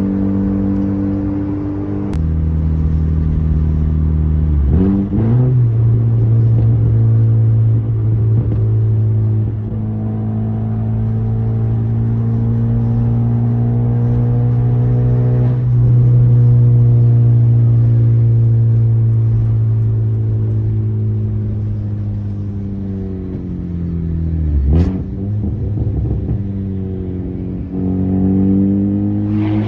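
Modified Volkswagen Jetta Mk4's engine running under way, its pitch moving with throttle and gear changes. It drops about two seconds in, climbs quickly a few seconds later, falls slowly through the middle, and near the end dips briefly and climbs again.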